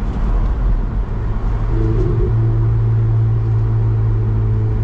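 Ferrari 488 GTB's twin-turbo V8 running as the car drives along, a low, even engine drone that settles into a steady note about two seconds in.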